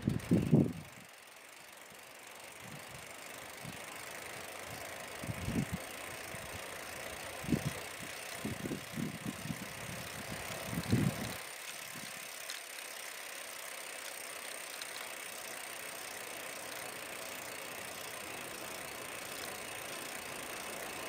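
Steady hiss of wind and movement during a bicycle ride, with irregular low gusts of wind buffeting the microphone in the first half.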